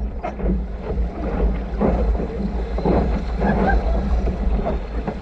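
Wind buffeting the microphone on a small sailboat underway, a steady low rumble, with water splashing and slapping against the hull in irregular bursts.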